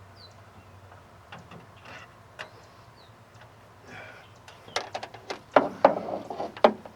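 Scattered light clicks, then a quick run of sharp clicks and knocks in the last two seconds or so, from parts and tools being handled.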